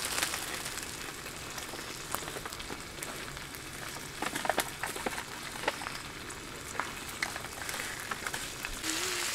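Shrimp, garlic and mushrooms frying on a black griddle pan over a gas stove, a steady sizzle. Scattered clicks and taps run through it as the pieces are spread around the pan.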